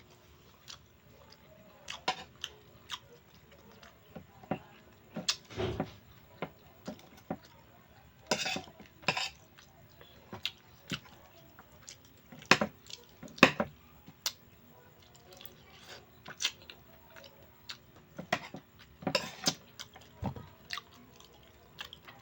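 Eating sounds: irregular clinks and scrapes of utensils against a plate, with chewing and mouth sounds in between.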